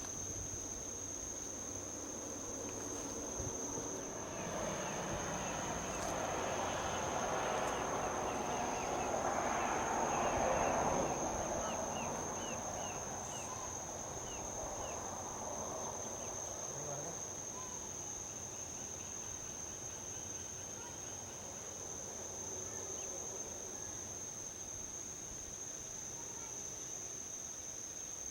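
Steady high-pitched drone of crickets or similar insects, with a vehicle passing on a highway: its tyre and engine noise swells to its loudest about ten seconds in, then fades away.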